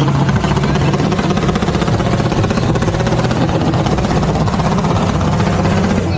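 A car engine running at a steady idle, loud and close, with a fast even pulse and no change in pitch.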